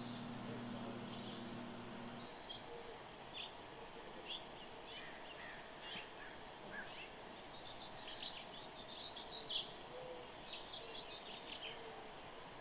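Small birds chirping in many short, quick notes over faint background noise; a low steady hum stops about two seconds in.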